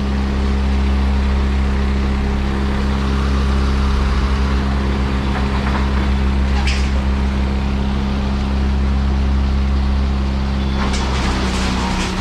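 Heavy machine engine running steadily at constant speed, with a short knock about two-thirds of the way through and a few more knocks near the end.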